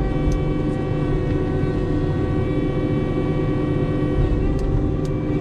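Skidder's diesel engine running steadily under working load, with a couple of brief ticks.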